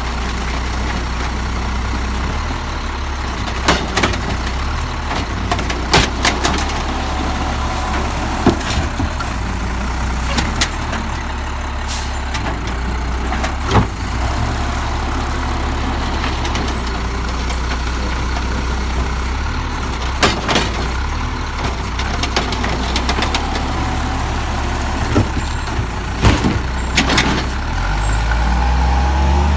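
Peterbilt 320 garbage truck's diesel engine idling steadily, with sharp knocks and clanks every few seconds; near the end the engine revs up.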